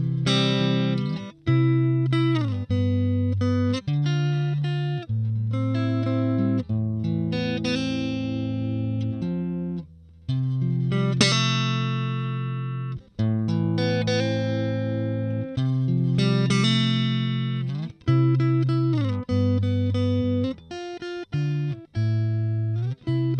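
Stratocaster electric guitar played through the Valeton Dapper Mini amp-simulator pedal: a run of chords, each held a second or two and then cut off short.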